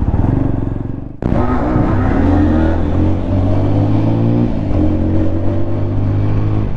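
Single-cylinder 200 cc motorcycle engine accelerating on the road, its pitch climbing steadily. There is a short abrupt break a little over a second in, and a slight drop in pitch near the middle as it shifts up.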